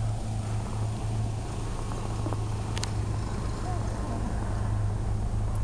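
A truck engine running steadily with a low hum, and a single sharp click about three seconds in.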